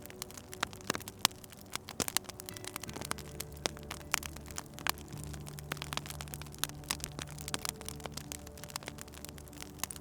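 Wood fire crackling, with frequent sharp, irregular pops, over soft ambient music of held low notes that shift about three seconds in.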